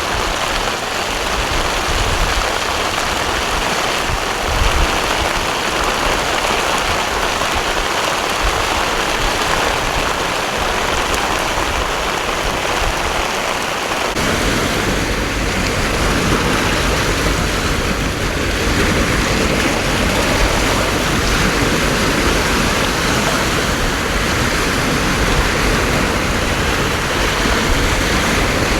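Heavy downpour: a dense, steady hiss of torrential rain. About halfway through a deeper rush fills in beneath it.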